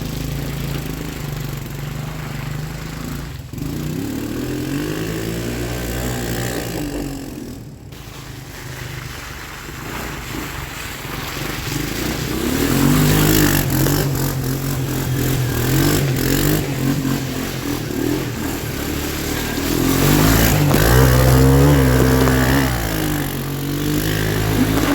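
Three-wheeler engine revving up and down over and over as it spins and slides in mud, dropping off briefly about eight seconds in and running hardest a little past the middle and again near the end.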